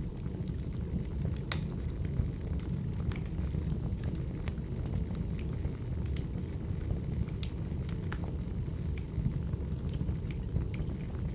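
Wood fire burning, with a steady low rumble and irregular sharp crackles and pops a few times a second.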